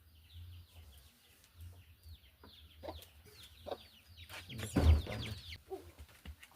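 Chickens calling: a run of short, high, falling peeps that grows busier and louder, with a louder knock about five seconds in.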